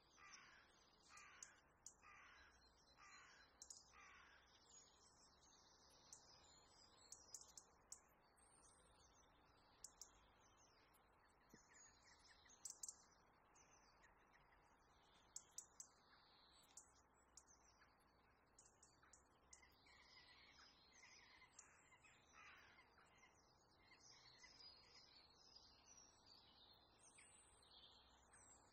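Faint bird calls: a run of about six short calls spaced under a second apart in the first few seconds, then scattered high chirps from small birds for the rest of the time, with a few faint clicks.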